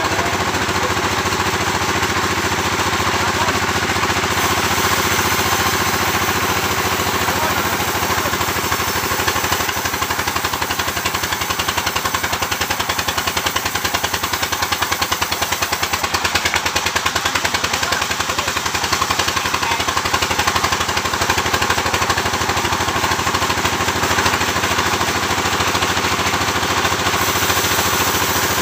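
Sawmill engine running steadily, with a fast, even pulse.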